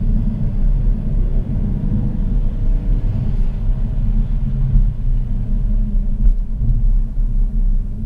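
Audi RS5 with its stock exhaust, engine running at low, steady revs as the car drives: a steady low rumble with no revving.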